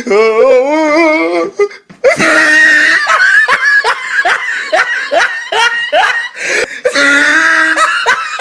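A person laughing hard: a long wavering laugh, then about two seconds in a run of quick repeated laughs, about three a second.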